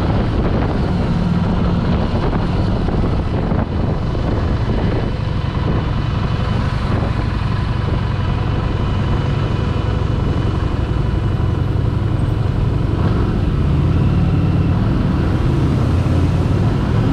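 Harley-Davidson Street 750's liquid-cooled V-twin running at low speed while the bike filters through a traffic jam, a steady low rumble.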